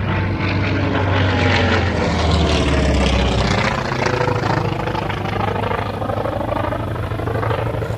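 World War II radial-engine propeller warbird, taken for an F4U Corsair, running loud and steady as it passes close by with the throttle opened up; its engine tones bend down and back up as it goes past.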